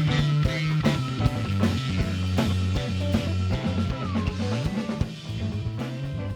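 Live rock band playing an instrumental passage: drum kit hits over a bass line, with a held lead guitar note that bends down in pitch about four seconds in.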